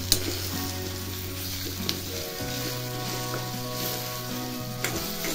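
Onion and mashed roasted eggplant sizzling as they are sautéed in an iron kadhai, stirred with a steel spoon that clicks against the pan a few times. Soft background music with held notes plays alongside.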